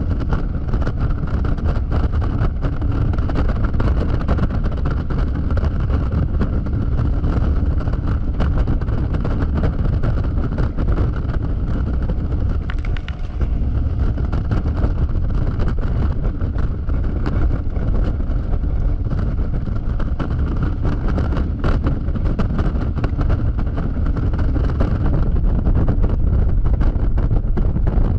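Wind rush and road noise on the camera of a Yamaha XMAX scooter moving at highway speed, with the engine running steadily beneath it. Many small, scattered ticks run through the noise.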